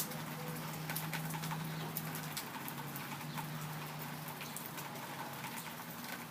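Rain falling, with many separate drop impacts ticking over a steady hiss, and a faint low hum underneath that stops about five seconds in.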